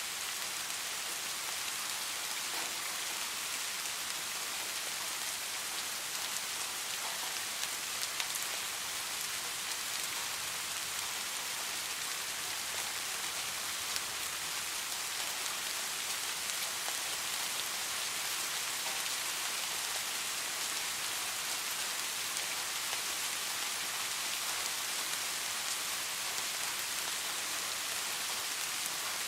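Steady, dense rain hissing evenly, with a few sharper ticks of single drops about 8 and 14 seconds in.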